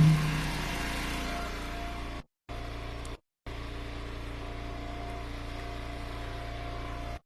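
Eastonmade Ultra wood splitter's engine running steadily, briefly louder at the start and easing off over about a second. The sound cuts out completely twice, briefly.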